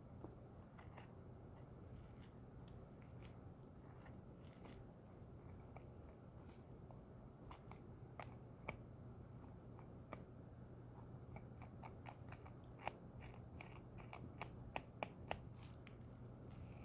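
Faint, scattered clicks and snips of dissecting instruments working on tissue, coming more often in the second half, over a low steady hum.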